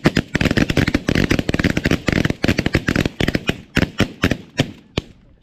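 Volley of shotgun fire from several hunters shooting at snow geese: many shots overlapping in a rapid barrage for about four seconds, then thinning to a few single shots near the end.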